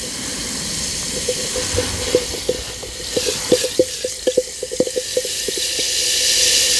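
Bath bomb fizzing in water: a steady hiss with many small bubble pops, which come thickest about halfway through.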